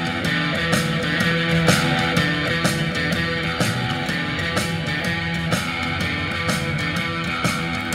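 Rock music with guitar and a steady beat, played from an MP3 file on an SD card through a HEAKO car stereo head unit; the music drops away right at the end.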